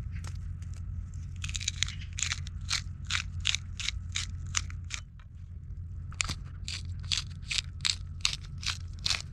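A knife cutting crisp vegetables on a board in a steady run of crunchy cuts, about three a second, with a break of about a second around the middle, over a steady low hum.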